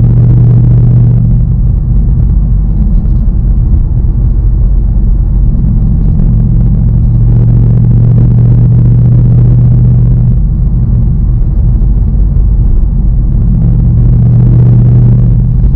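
2019 Ford Mustang Bullitt's 5.0-litre V8 running under way, a steady low engine drone with a deep hum that fades and comes back twice.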